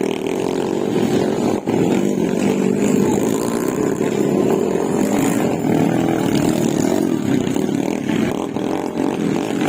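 Small motorcycle engines running steadily during a motocross race.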